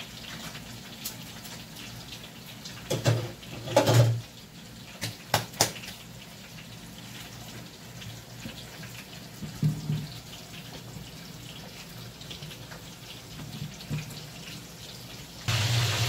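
Breaded chicken rolls deep-frying in hot oil in a wok, a steady sizzle, with a few sharp clicks of metal tongs against the pan a few seconds in. Near the end the noise suddenly gets much louder.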